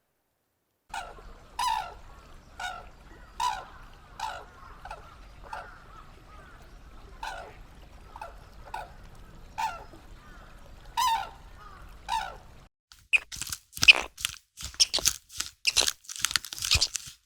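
A bird calling over and over in short, falling notes, roughly one a second. Near the end this gives way to a run of sharp crunching, like an animal chewing.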